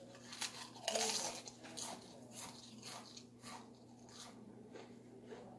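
Someone biting and chewing food close to the microphone: irregular crunches and mouth sounds, the loudest about a second in, over a faint steady hum.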